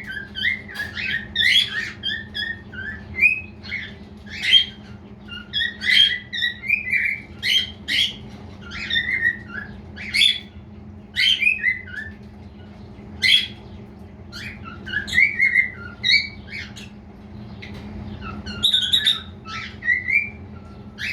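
Male cockatiel chirping and whistling: a long run of short calls in bursts separated by brief pauses.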